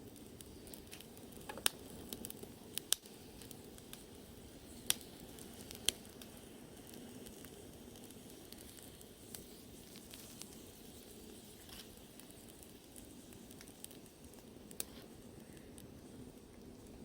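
Wood bonfire crackling: irregular sharp pops over a steady low hiss, thickest in the first six seconds.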